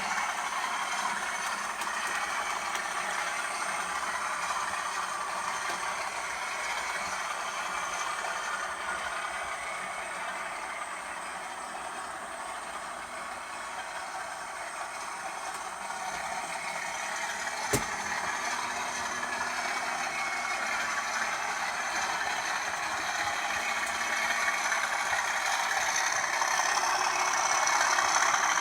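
British Rail Class 37 diesel locomotive running, its English Electric engine sound mixed with rattling, growing louder toward the end, with one sharp knock about two-thirds of the way through.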